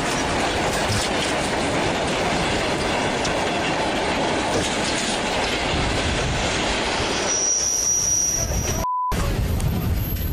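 A train running on rails: steady wheel-and-rail noise with some wheel squeal. About seven seconds in, the sound changes to a quieter rumble with a steady high whine, and a short beep near the end.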